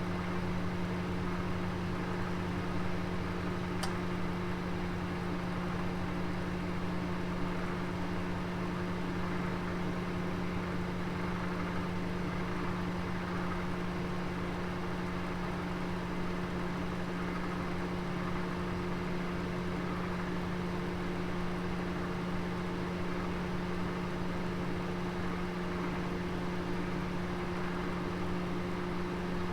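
Oven running with a roast inside: a steady electric hum over an even, fan-like rushing noise, with one faint tick about four seconds in.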